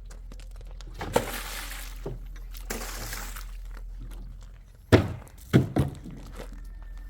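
A few dull thuds and knocks over a low steady hum. There is a knock and a stretch of hiss early on, then three louder thuds close together about five seconds in.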